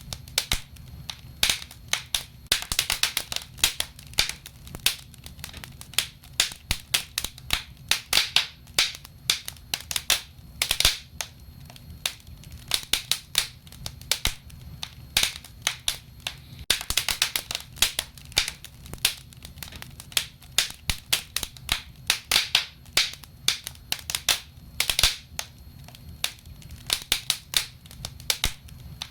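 Wood fire burning in a fireplace: frequent irregular crackles and sharp pops over a low, steady rumble of the flames.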